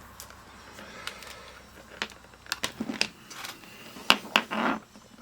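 Scattered clicks and light knocks of objects being handled, with a short scraping rustle near the end.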